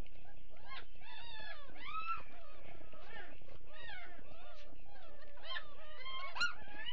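A litter of Great Dane puppies whining and yelping over one another, a constant stream of short, high cries that rise and fall in pitch, while the pups wait to be fed.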